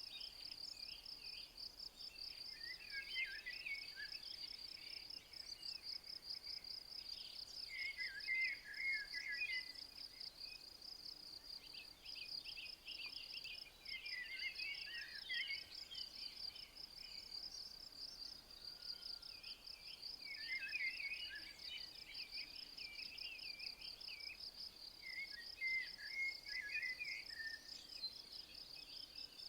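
An insect trills steadily in fast, even pulses, while a songbird sings short phrases about every five or six seconds.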